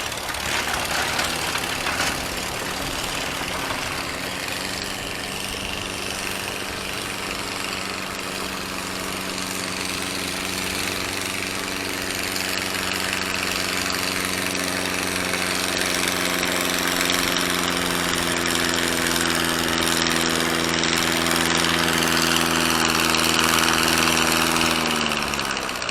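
Gas farm tractor engine running at a steady speed, growing slightly louder through the second half, then winding down near the end.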